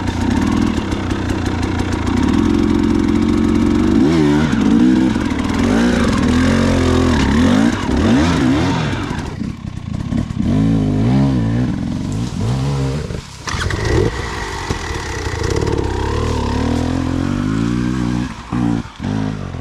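Dirt bike engine revving up and down repeatedly as it is ridden over obstacles, with short throttle chops and a couple of brief drops near the end.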